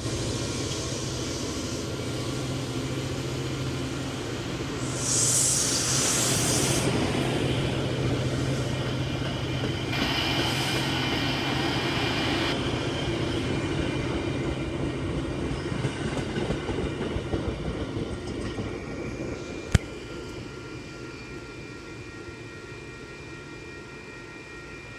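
MBTA commuter rail diesel locomotive pulling its train out of the station. Its engine drones steadily under the rumble of the cars, with a loud burst of hiss about five seconds in and a lighter one around ten seconds. A single sharp click comes near twenty seconds, and the sound fades over the last few seconds as the train draws away.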